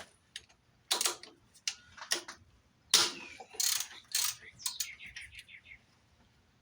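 Hand work on car parts: irregular clicks, knocks and rattles of parts and tools being handled, the loudest knock about three seconds in, then a quick run of light ticks near the end.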